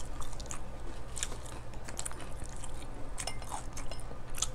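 Chewing and small eating sounds of people eating a meal with their hands, with scattered light clicks and clinks of plates and bowls over a steady low hum.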